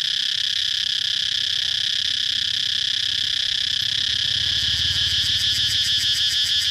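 Cicadas buzzing in a steady, high-pitched drone. About four seconds in, the buzz takes on a fast, even pulsing.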